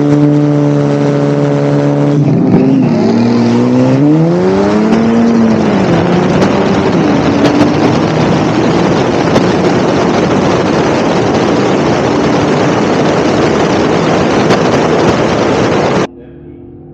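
A drag-race car's engine held at steady high revs on the start line, then launching: the pitch climbs and dips through gear changes and gives way to a loud rushing noise as the car runs down the track. The sound cuts off abruptly near the end.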